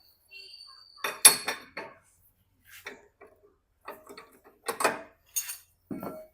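Metal hand tools clinking and knocking on a scooter's steering head nut as it is worked loose: sharp clinks in a cluster about a second in and another near the end, with a few single clinks between.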